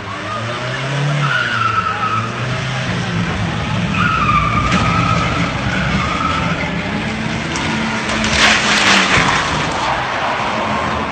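A car's engine revving hard while its tyres squeal and skid, the squeal wavering in pitch. About eight and a half seconds in, a loud burst of noise cuts across it.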